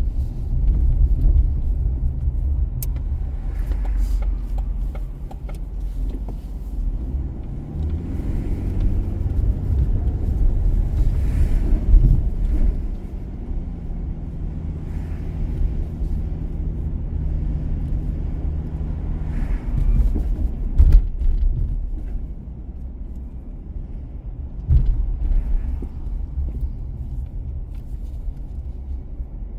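A car driving: a steady low rumble of engine and tyres on the road, with a few sharp thumps.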